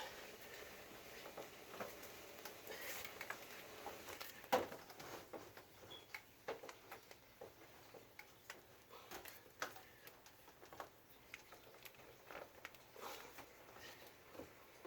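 Faint scattered knocks, clicks and scraping from an air handler's evaporator coil being handled and slid into the grooved tracks of the cabinet, with one sharper knock about four and a half seconds in.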